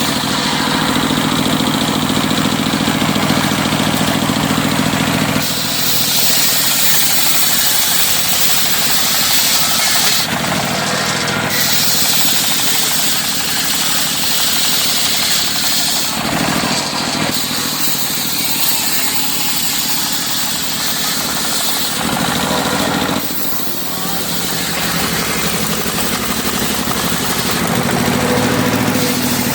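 Circular sawmill running, its engine steady underneath, with the blade cutting teak wood in repeated passes: a loud high-pitched cutting noise lasting a few seconds at a time, about four times, with short breaks between.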